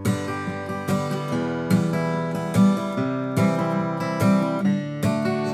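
Acoustic guitar strummed in a steady campfire-style rhythm, with bass notes played apart from the strums, running through a chord progression in G major.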